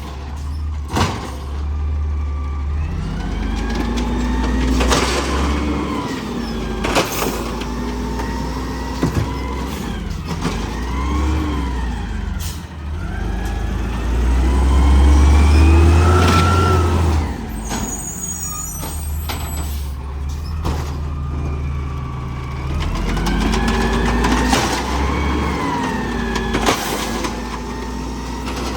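Garbage truck engine running and revving up and down in several slow swells, its pitch rising and falling as it powers the hydraulics. Sharp clanks and bangs come every few seconds, along with a hiss of air brakes.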